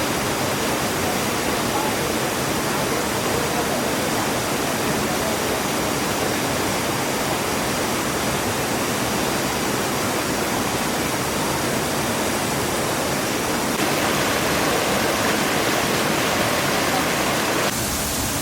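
Steady rush of a waterfall, a dense even roar of falling water, which grows a little louder and brighter about fourteen seconds in.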